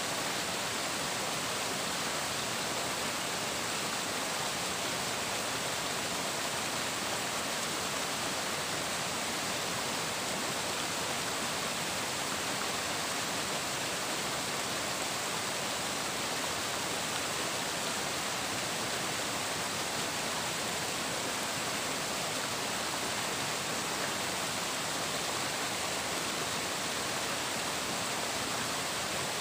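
Running water making a steady, unbroken rush.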